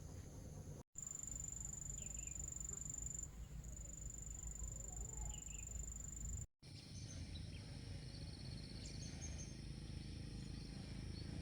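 Night-time ambience of insects chirping and trilling: a steady high trill over a low background rumble, cut off abruptly twice, about a second in and just past six seconds. After the second cut, a different ambience with scattered high chirps.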